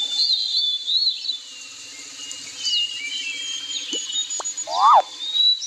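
Birds chirping in high, short phrases over a faint low steady hum, with a brief rising-and-falling call near the end.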